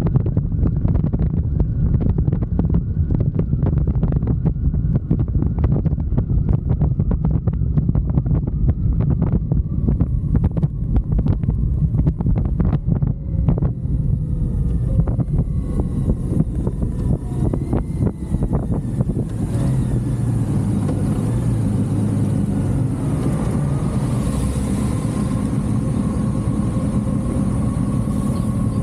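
Motorcycle riding with heavy wind buffeting on the microphone. About halfway through, the wind eases and the engine comes through, its pitch rising and falling and then settling into a steady note as it slows toward idle.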